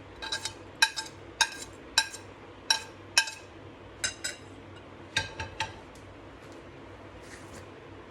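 A spoon clinking against the rim and sides of a mixing bowl as chopped onion and chili are stirred into fish paste. The sharp, ringing clinks come in quick twos and threes and stop about two-thirds of the way through.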